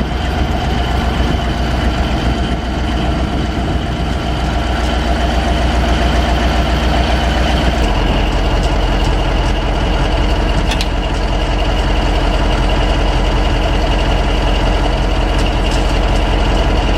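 Heavy machine's engine running steadily, its low note shifting about eight seconds in.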